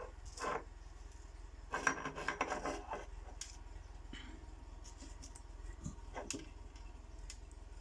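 Close-up handling of small fishing tackle: a brief rub, then a cluster of rustling and small clicks, followed by a few scattered single ticks, over a steady low hum.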